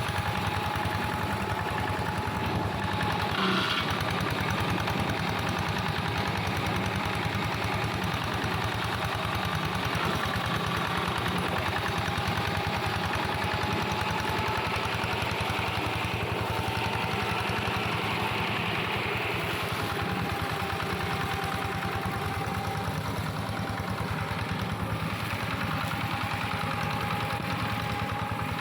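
Engine of a plough tractor modified as a grass and brush mower, running steadily, with a thin whine whose pitch wavers slightly. A brief knock about three and a half seconds in.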